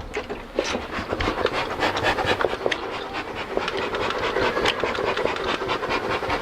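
Honeybee colony buzzing with a steady hum, under close crackling and rubbing as honeycomb is handled and cut out of the hive.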